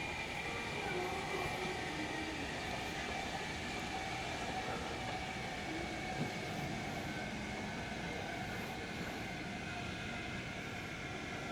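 Steady mechanical rumble and hum of a cruise ship's interior, its machinery and air handling running, with faint steady whine tones and one short click about six seconds in.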